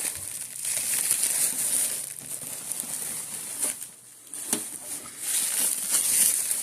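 Packaging wrapper crinkling in uneven handfuls as it is pulled off a new VCR/DVD player, with a few sharp clicks and a brief lull about four seconds in.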